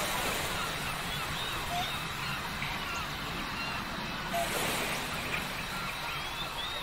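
Birds chirping over a steady rushing background noise, with a broader swell about four and a half seconds in.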